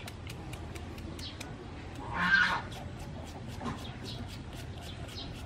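A short, loud call from a bird about two seconds in, over a steady run of faint, rapid ticking.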